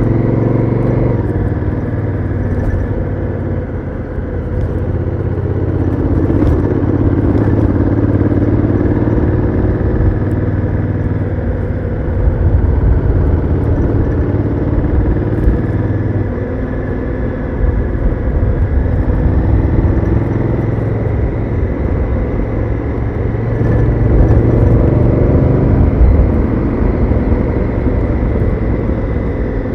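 Honda Africa Twin CRF1000L's parallel-twin engine on the move, heard through its stock exhaust, its note rising and falling repeatedly as the throttle opens and closes.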